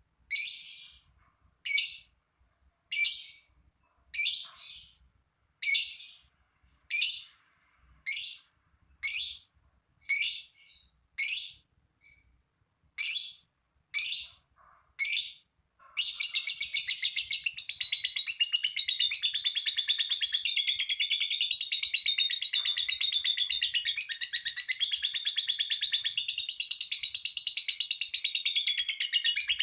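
Lovebird calling: sharp, separate chirps about once a second, then about halfway through it breaks into a long, unbroken rapid chattering trill, the long 'ngekek' song.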